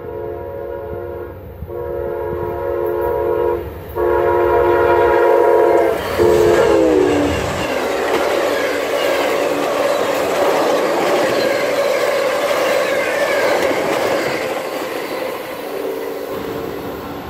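Horn of an Amtrak P42DC passenger locomotive sounding in several long blasts, its chord dropping in pitch as the locomotive passes about six to seven seconds in. Then the rumble and clickety-clack of the passenger cars rolling by at speed, with the horn heard again, fainter, near the end.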